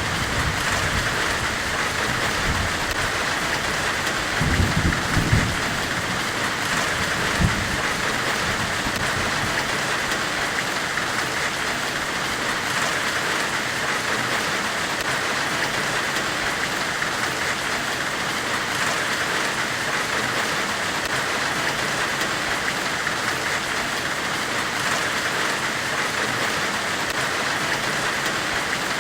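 Steady hissing white noise, billed as the hiss of a forge weld, with a few low thuds about four to five seconds in and another near seven and a half seconds.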